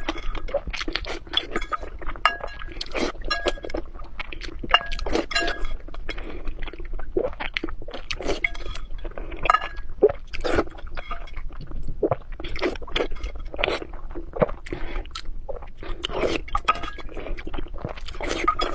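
Lop rabbit eating greedily, with quick, irregular crunching and sharp clinks against a hard dish.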